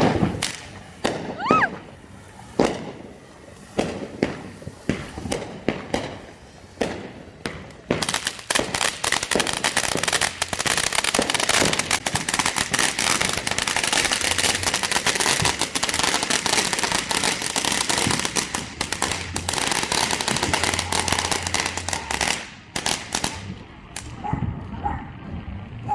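Firecrackers going off: scattered sharp bangs at first, with a brief whistle near the start. About eight seconds in they become a dense, rapid crackle lasting some fourteen seconds, then thin out to a few last pops.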